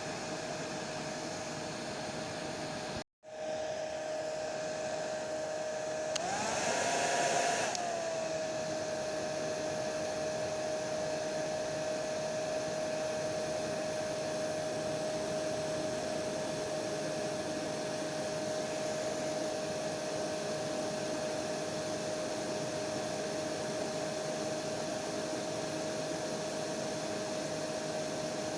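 Electric hair dryer running steadily: an even rushing hiss with a constant motor whine. It cuts out for an instant about three seconds in, and a few seconds later briefly gets louder with the whine rising in pitch before settling back to the steady run.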